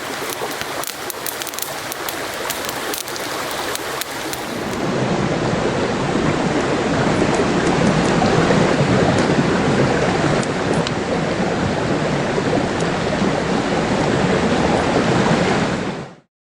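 Wood campfire crackling and burning, with many sharp pops at first; about four seconds in it changes to a louder, steadier burning with occasional pops, and it cuts off abruptly near the end.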